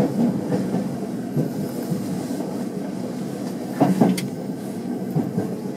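Tokyo Metro 05 series train running through a tunnel, heard from inside the front car: a steady rumble of wheels on rails. A sharp clack comes about four seconds in.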